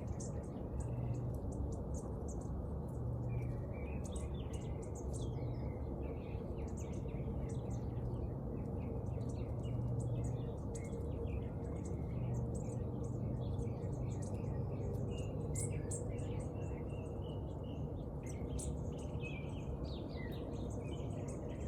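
Several small birds chirping and twittering in a busy, overlapping chorus of short high calls, over a steady low rumble.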